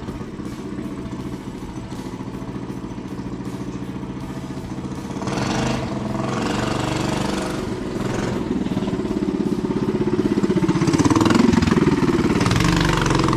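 Small mini bike engine running as it is ridden, its pitch shifting with the throttle and growing louder near the end as the bike comes closer.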